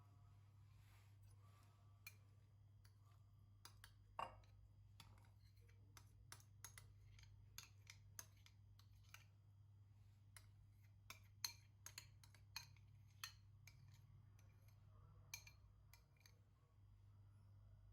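Faint, irregular light clicks and taps, about twenty of them, over a low steady hum.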